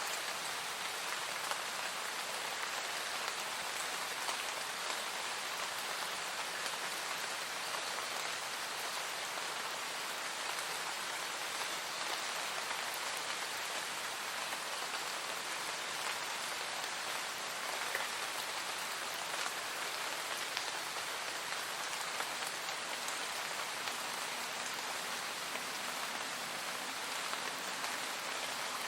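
Steady, even rain, with a dense patter of individual drops.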